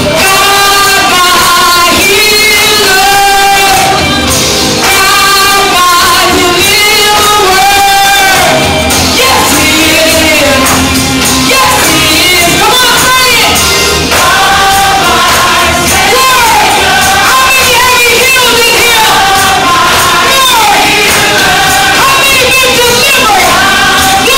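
Church worship music: voices singing long held notes over instrumental backing, loud and without a break.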